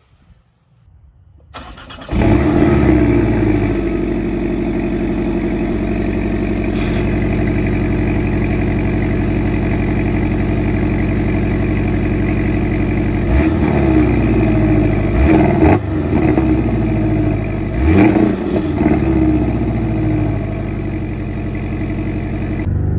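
2020 Porsche 718 Cayman's turbocharged 2.0-litre flat-four starting up about two seconds in, then idling steadily at the twin exhaust. In the second half it gets a few short throttle blips, each rising and falling back to idle.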